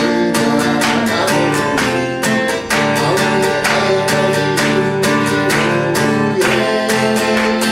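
Acoustic guitar strummed in a steady rhythm, playing an instrumental passage with no singing.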